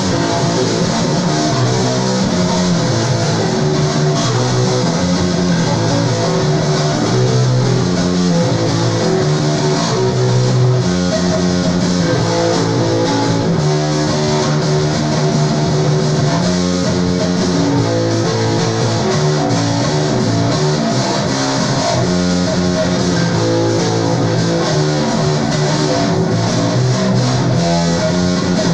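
Bass guitar solo: a continuous run of plucked notes.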